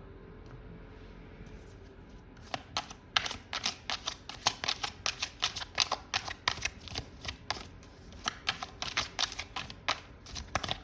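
A tarot deck being shuffled by hand: a fast, dense run of card snaps and slaps that starts about two seconds in and stops just before the end.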